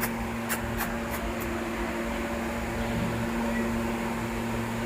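Steady mechanical hum of an appliance motor, such as a fan, with a few faint sharp clicks in the first second and a half.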